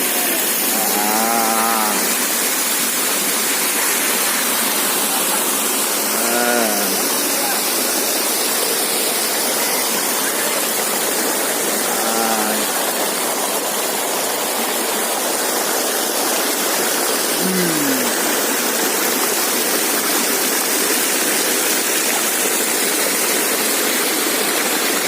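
Steady rush of a waterfall pouring into a pool. Over it come three drawn-out low calls a few seconds apart, then a shorter call that falls sharply in pitch.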